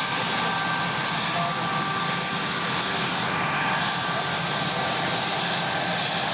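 Marine One helicopter running steadily, a continuous rush of turbine and rotor noise with a high steady whine.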